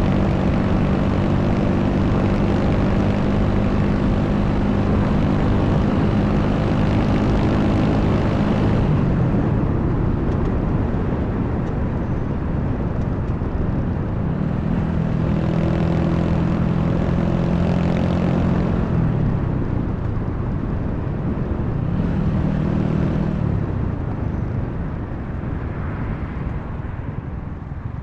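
Honda Wave 125's single-cylinder four-stroke engine running under way, its pitch dropping as the throttle is eased about a third of the way in, picking up again for a few seconds past the middle before falling off, with one short burst of throttle near the end, all under wind rush on the microphone.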